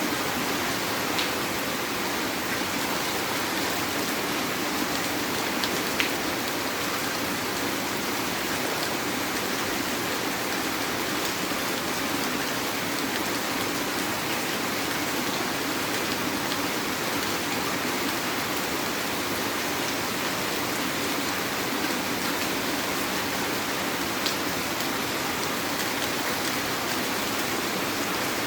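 Heavy rain falling steadily, a dense even hiss with a few sharper drop hits, at about one, six and twenty-four seconds in.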